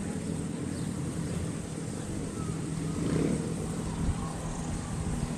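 Motorcycle engine running steadily at low revs, swelling briefly about three seconds in, with a short low thump a second later.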